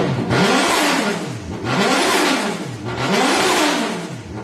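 Toyota 1JZ-GTE turbocharged inline-six being blipped again and again, its pitch rising and falling with each rev, with a loud rushing hiss over each blip: the turbo flutter the owner is showing off.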